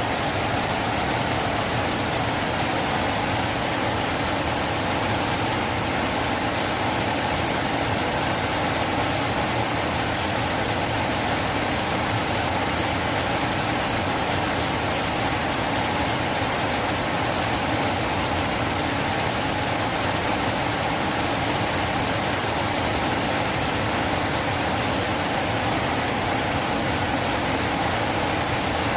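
River water flowing, a steady unbroken rush of moving water.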